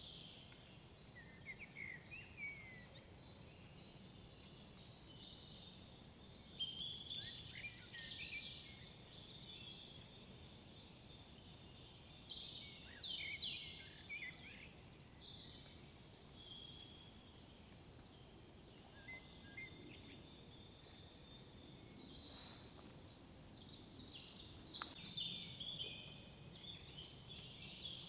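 Several songbirds singing in woodland. One repeats a high rising trill about every eight seconds, with other chirps and warbles from different birds in between.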